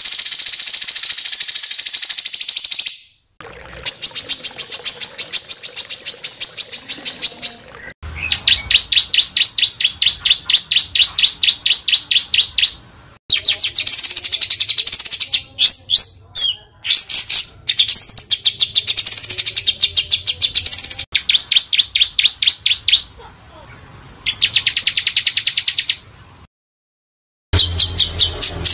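Small songbird singing rapid, dense trills of quickly repeated high notes, in bursts of a few seconds separated by short pauses; some bursts waver up and down in pitch.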